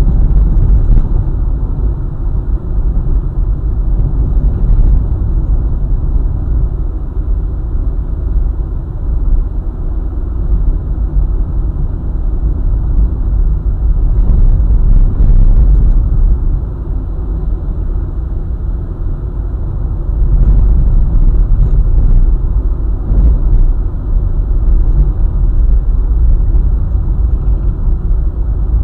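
Car driving on a highway: a steady low rumble of road and engine noise that swells and eases slightly.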